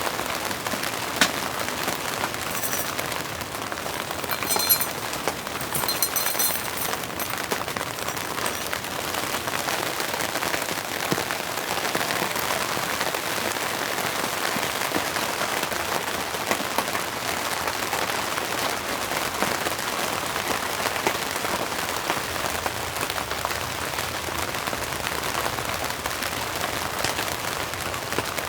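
Steady rain falling, with occasional sharper drop hits standing out. A few short high-pitched chirps sound between about three and seven seconds in.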